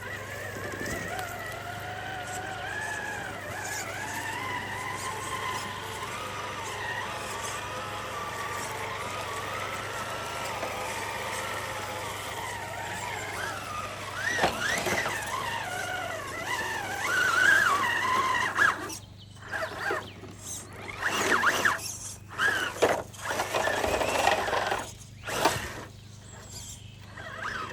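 Electric motor and geared drivetrain of a 1/10-scale RC rock crawler whining, the pitch wavering up and down with the throttle. From about halfway it gets louder and runs in short stop-start bursts.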